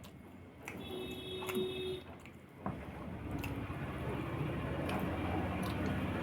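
Close-up eating noises: scattered clicks and mouth sounds. A brief steady tone sounds about a second in, and a low steady hum starts a little before halfway and keeps on.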